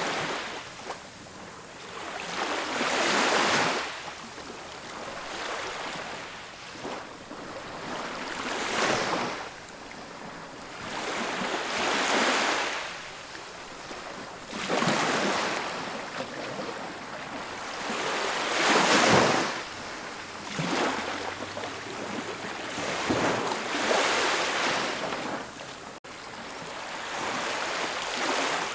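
Ocean surf breaking on a beach: a rush of waves that swells and fades every few seconds.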